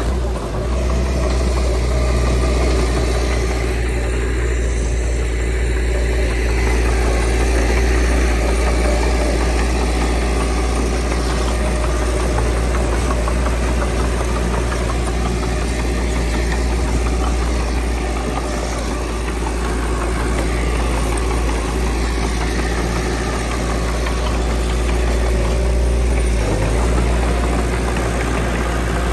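Diesel engine of earthmoving machinery, a bulldozer or dump truck, running steadily with a deep low drone and small rises and falls in load.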